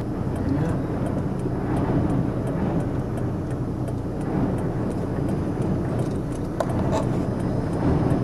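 Strong wind buffeting the camera microphone: a steady low rumble.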